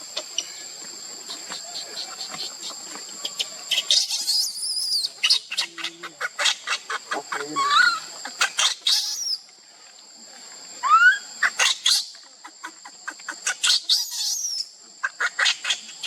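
Forest insects droning steadily on two high tones, with runs of rapid sharp clicks and short chirping calls over them, including a couple of rising calls.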